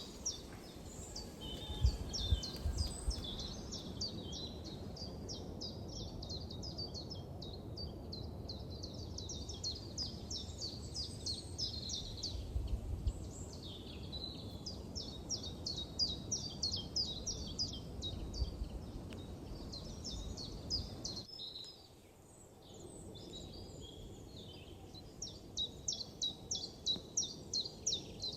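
Songbirds singing in fast runs of short, high, repeated chirps lasting several seconds each, with brief pauses between runs, over a steady low rumble.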